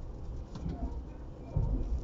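Low rumble of a JR East E233-0 series commuter train running, with a heavy knock about one and a half seconds in.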